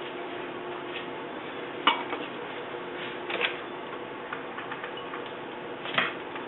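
Spice containers and kitchenware being handled on a counter: three light knocks and clicks, about two seconds in, mid-way and near the end, over a steady faint hum.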